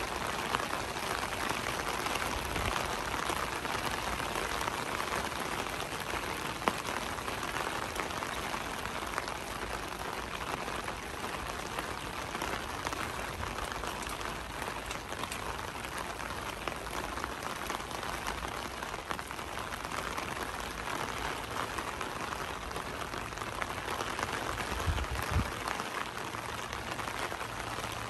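Steady rain falling, an even hiss, with a couple of sharp clicks and a brief low thump near the end.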